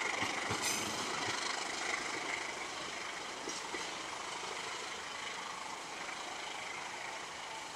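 Passenger train pulling away: a steady rumble of coach wheels on the track, fading gradually as the train moves off.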